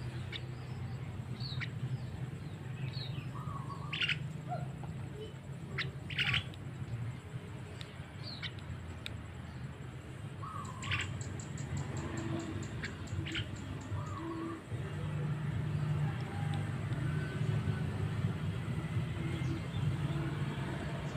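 Javan myna (jalak kebo) calling: scattered short whistles, squawks and sharp clicks, with a fast rattling call about halfway through, over a steady low hum.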